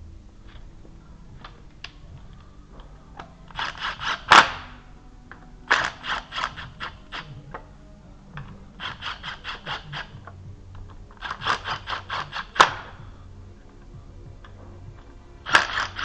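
Ratchet wrench being worked on the engine: four runs of quick, even clicks, each a second or two long, with a sharper clack at the end of some runs.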